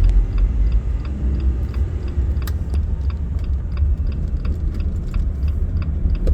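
Inside a Jeep Gladiator's cabin: a steady low road and drivetrain rumble, with the turn-signal indicator ticking evenly at about three ticks a second while leaving the highway.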